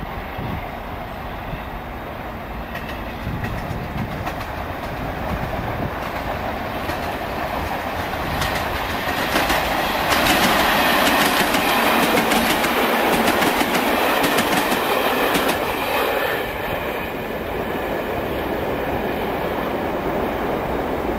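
Third-rail electric multiple unit running over pointwork, its wheels clattering over the rail joints and crossings. The clatter grows louder as a train passes close about ten seconds in, then eases back to a steady rumble.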